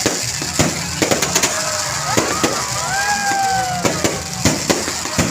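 Aerial fireworks exploding in quick succession: sharp bangs and crackling pops throughout, with a couple of long, slowly falling tones over them in the middle.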